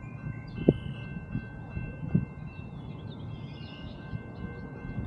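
A steady low rumble with faint steady high tones over it and a couple of soft knocks, about a second and two seconds in.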